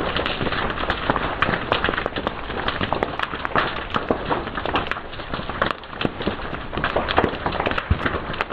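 Wood fire crackling: a dense, irregular run of sharp pops and snaps over a steady hiss.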